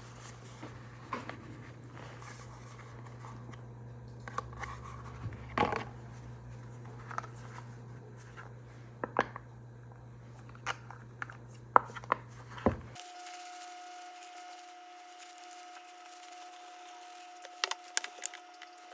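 Scattered small clicks, taps and rustles of objects being handled, over a steady low hum. About thirteen seconds in, the hum cuts off abruptly into quieter room tone with a faint steady tone, and a few more clicks come near the end.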